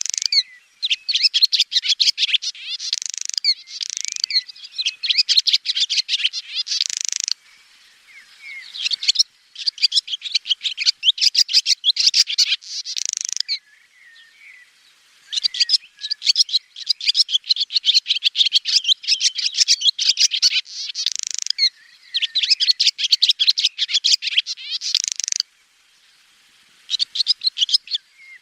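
Swallow twittering: long runs of rapid, high chirps and trills lasting several seconds each, broken by short pauses of a second or two.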